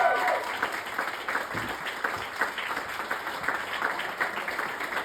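A crowd applauding: many hands clapping in a dense, irregular patter that eases slightly in the first half-second, then holds steady.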